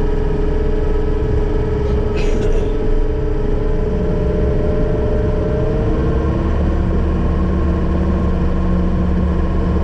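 John Deere 333G skid loader's diesel engine running steadily, its note shifting slightly about six seconds in, with a brief hiss about two seconds in.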